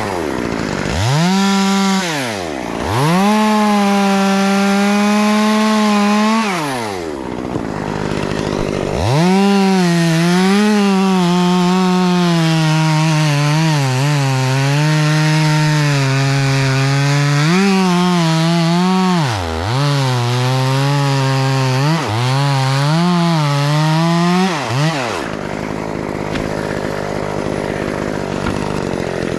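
Two-stroke chainsaw revved to full throttle in several long bursts, dropping back between them. In the longer bursts the pitch sags and wavers as the saw bogs under load cutting through wood. It falls off for the last few seconds.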